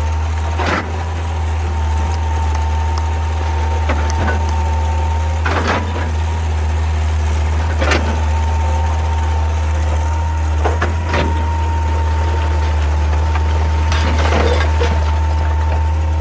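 Excavator's diesel engine running steadily, with a constant high whine over the low drone and a sharp knock or clank every second to few seconds.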